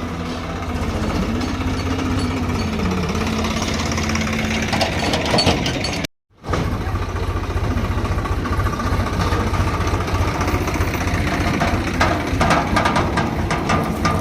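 Heavy diesel engine of earth-moving machinery running with a fast, even knocking beat. A wavering tone rides over it for the first few seconds, the sound cuts out briefly a little after six seconds, and a few clanks come near the end.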